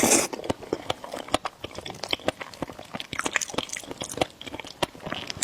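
Close-miked eating sounds from spicy noodle hotpot with eggs: wet chewing and mouth smacks, many short clicks, with a louder slurp right at the start.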